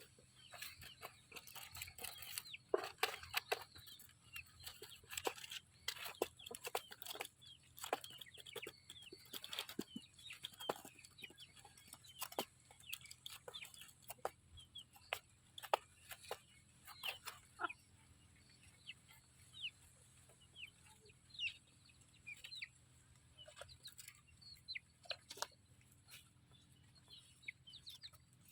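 Chickens calling: a hen clucking among many quick, high peeps from chicks, busiest in the first half and thinning out later.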